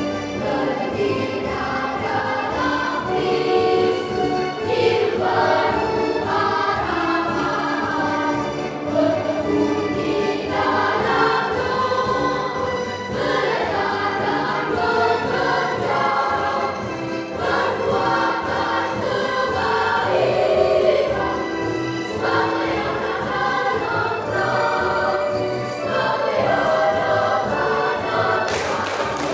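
Children's Sunday school choir singing a song together, with many voices holding and changing notes without a break.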